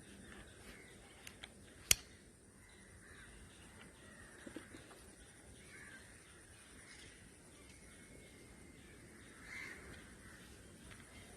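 Faint cawing bird calls in the background, a few seconds apart, with one sharp click about two seconds in and a few lighter clicks around it.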